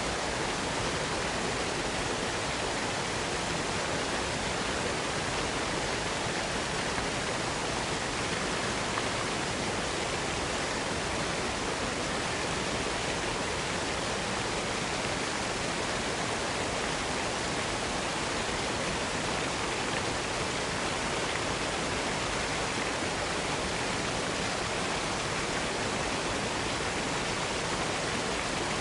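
Waterfall pouring steadily, an even, unbroken rushing hiss.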